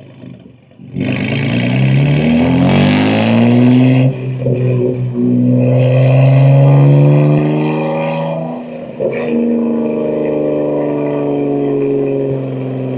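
BMW M2 G87's S58 twin-turbo inline-six, breathing through catless downpipes and an equal-length mid pipe, pulling hard from about a second in with the revs climbing. The revs drop for a gear change about four seconds in, climb again, and drop at a second shift near nine seconds, then hold steady.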